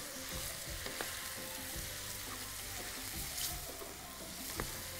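Chicken pieces and sliced onions sizzling as they fry in a metal pan over a gas burner, browning until the chicken changes colour. Two wooden spoons stir and turn them, knocking against the pan a few times.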